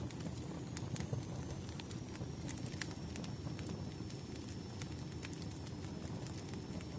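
Wood fire crackling: irregular sharp snaps and pops over a low, steady rumble of burning logs.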